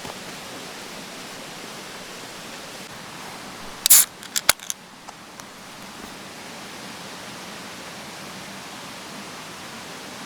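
Steady rushing hiss of flowing water, with a quick run of four or five sharp clacks about four seconds in.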